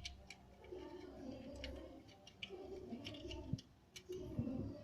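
Irregular light clicks and taps, a few a second, over faint murmured voices.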